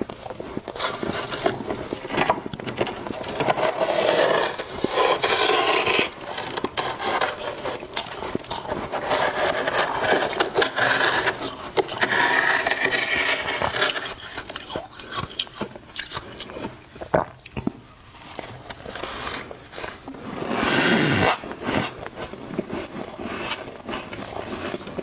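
Thick, flaky deep-freezer frost scraped loose and crunched close to the microphone. It comes as a series of rough scrapes, each a second or two long, with short pauses and sharp clicks between them.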